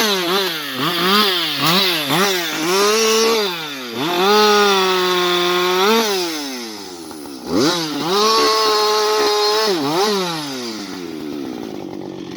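Husqvarna 560XP two-stroke chainsaw revved in several quick bursts. It is then twice held at high revs for about two seconds, falling back toward idle each time.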